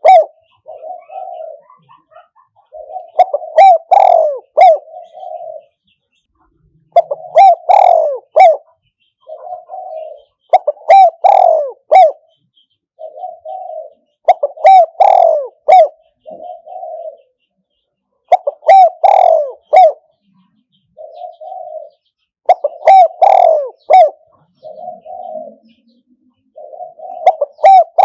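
Spotted dove decoy cooing, repeating its phrase about every four seconds: a loud run of coos followed by a few softer ones. This is the call a decoy bird makes to draw wild spotted doves to a trap.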